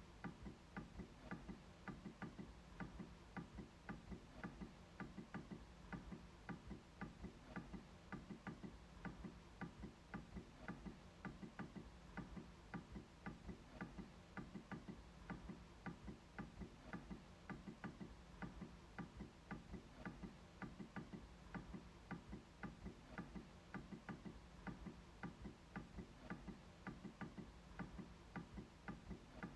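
MacBook trackpad being clicked over and over: a faint, steady run of light clicks, several a second.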